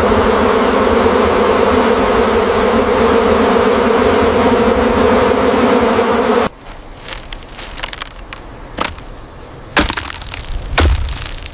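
A swarm of bees buzzing loudly and steadily, cutting off abruptly about two-thirds of the way through. Quieter crackling with a few sharp snaps follows.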